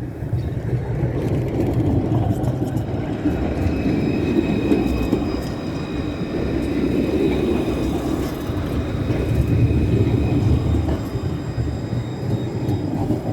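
Tram running past close by: a steady low rumble of wheels on rails that swells and eases, with a faint high whine through the middle.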